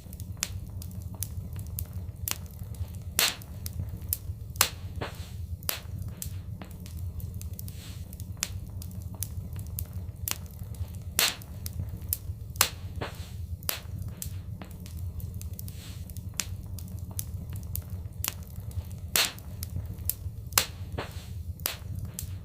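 Wood fire crackling: frequent sharp pops and snaps, a handful much louder than the rest, over a steady low rumble of the burning fire.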